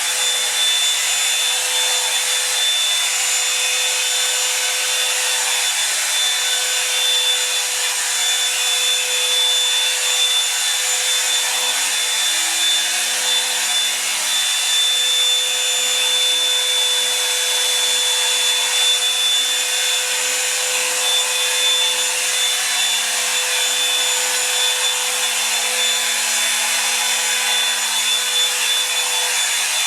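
Revlon One-Step hair dryer brush running steadily on a raised heat setting: a constant blowing hiss with a steady motor whine.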